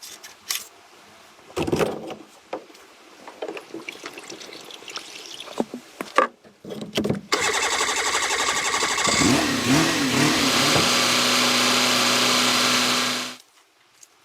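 Scattered knocks and clicks, then a loud machine starts about seven seconds in. Its pitch wavers for a couple of seconds before settling into a steady hum, and it cuts off abruptly near the end.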